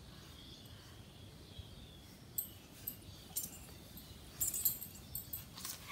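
Faint chirping of small birds over quiet room tone: several short high-pitched calls in the second half.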